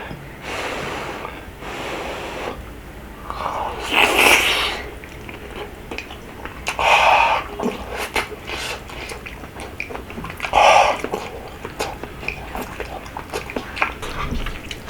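Close-miked eating of rabokki: chewing with many small wet mouth clicks, broken by a few louder slurping bursts about three seconds apart.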